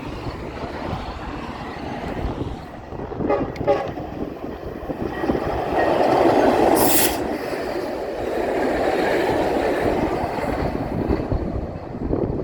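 Metrolink commuter train passing by the tracks, a rumbling rush of engine and rail noise that builds to its loudest about six to seven seconds in, then eases off.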